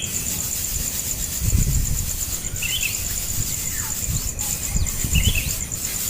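Two short bird chirps and a brief falling call over a steady, high, pulsing insect chirr, with a few low rumbles.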